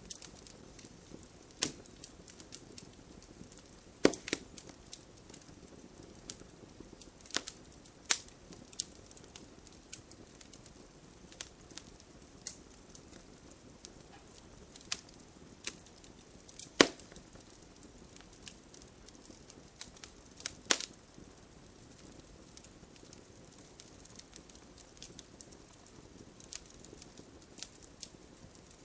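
Wood fire crackling in a fireplace: irregular snaps and pops over a faint steady hiss, with a few sharper, louder pops about four, seventeen and twenty-one seconds in.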